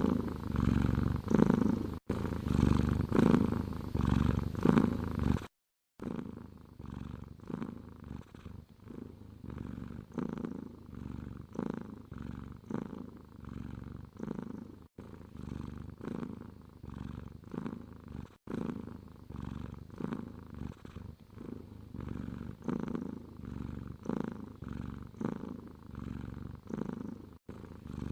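Domestic cat purring: a low rumble swelling and fading with each breath. About five and a half seconds in it cuts out for a moment, then resumes more quietly.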